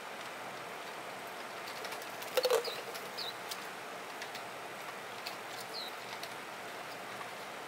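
A Swinhoe's white-eye giving short, thin, falling chirps three times a few seconds apart, with a brief flurry of wingbeats about two and a half seconds in as it takes off.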